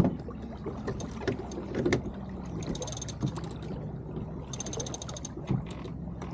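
Sailboat sheet winch being cranked in two short spells, its pawls clicking rapidly, while the jib is trimmed. Knocks of gear and hull around it, with a sharp knock right at the start.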